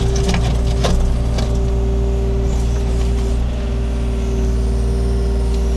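Takeuchi TB230 mini excavator's diesel engine running steadily with a constant hydraulic whine as it digs in rocky ground. A few knocks, likely the bucket hitting rock, come in the first second and a half.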